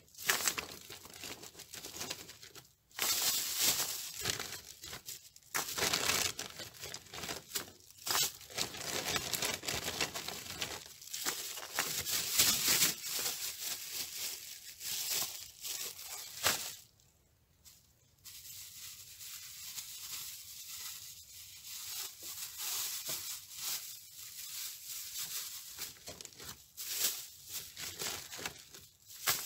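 Plastic bags rustling and crinkling in irregular bursts as lumps of coal are loaded into them by hand. The rustling pauses briefly a little past halfway.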